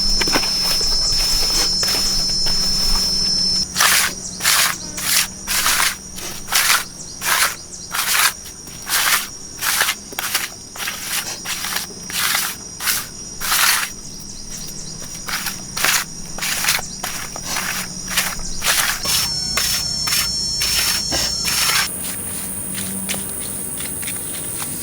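Insects buzzing with a steady high-pitched tone. Through most of the middle it is broken by a long run of regular short noisy strokes, about two a second, from an unseen task.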